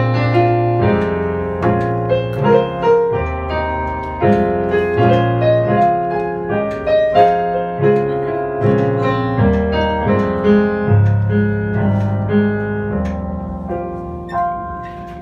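Jazz piano played live, chords under a melody line with sustained low notes, growing quieter toward the end.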